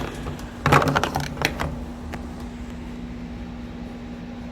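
Clicks and clatter of a portable jump starter being handled, in a burst about a second in, over a steady low hum.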